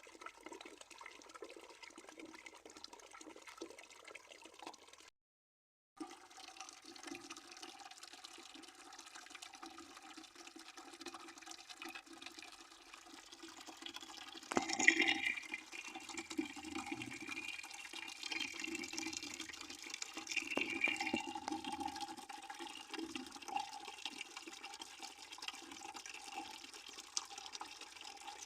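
A stream of water running into a bucket, a steady splashing with held tones under it. The sound drops out completely for under a second about five seconds in, and there is a louder splash about halfway through.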